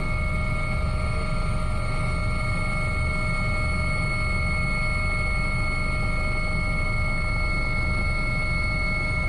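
Aircraft engine running steadily: a pulsing low rumble under a constant high-pitched whine.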